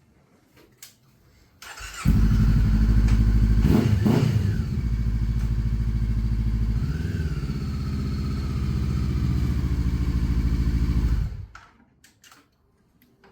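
Motorcycle engine starting about two seconds in, revved once briefly, then running steadily for the short ride and shut off abruptly about eleven seconds in.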